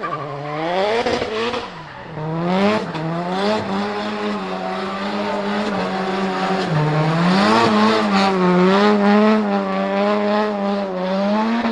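Nissan S14's turbocharged SR20DET four-cylinder engine held at high revs through a drift, the pitch staying level for long stretches and dipping and rising again a few times, with the tyres squealing under wheelspin.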